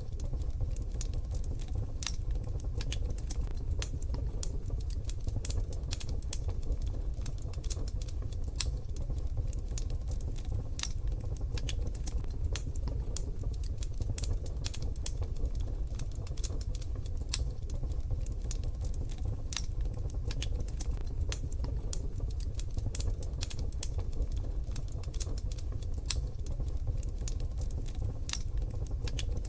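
Wood fire in a wood-burning stove crackling: dense, irregular sharp pops and snaps over a steady low rumble.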